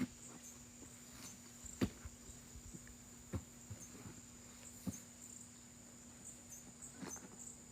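Faint, steady high-pitched insect chirring, with a low steady hum under it and a few soft scattered knocks or taps, the loudest about two seconds in.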